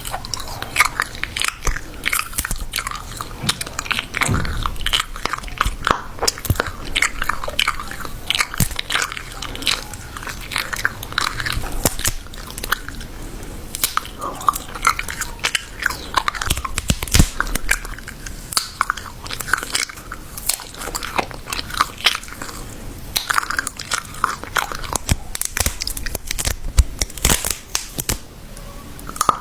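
Close-miked eating of crunchy food: bites and chewing with dense, irregular crunching and crackling.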